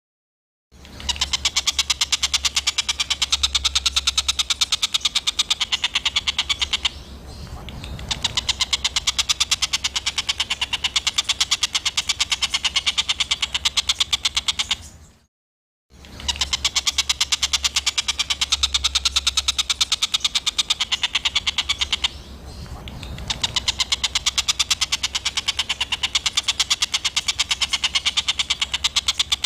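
Recorded songbird calls for bird training: harsh, rapid-fire chattering notes repeated very fast and high-pitched. They break off for under a second near the start and again about halfway, as a looped segment restarts.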